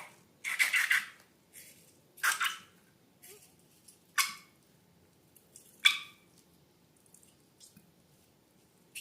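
Wet squishes and squelches of slime and rubber balloons being handled, in about four short bursts over the first six seconds, then a few faint clicks.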